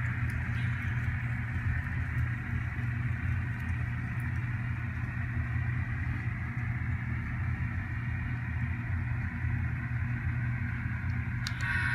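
Sound-decoder diesel engine sound of an N scale ScaleTrains Tier 4 GEVO model locomotive playing steadily from its small speaker as the train slows. Near the end the locomotive's bell starts ringing.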